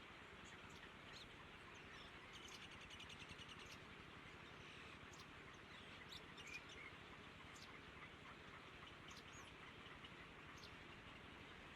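Faint, scattered short high bird chirps with a brief rapid trill about three seconds in, over a steady low hiss.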